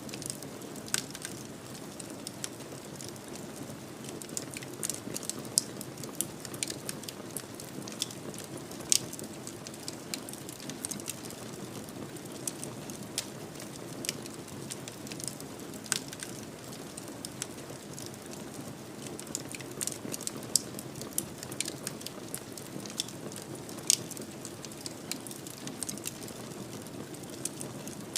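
Wood fire in a fireplace crackling over a steady soft hiss, with frequent irregular sharp pops, a few of them louder.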